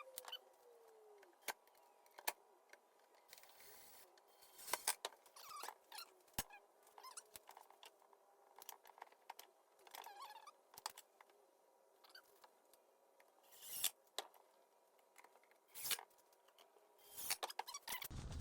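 Faint, scattered clicks, taps and short squeaks of metal drawer slides and hand tools being handled and fitted, over a faint steady hum.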